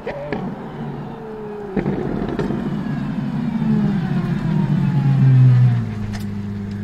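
The Apollo IE's naturally aspirated V12 driving past close by, its engine note falling in pitch as it nears and loudest about five and a half seconds in, then holding at a steady low pitch.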